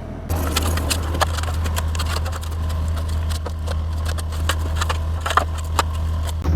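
Heavy-equipment diesel engine running steadily, with irregular sharp clanks and knocks of the machine working dirt.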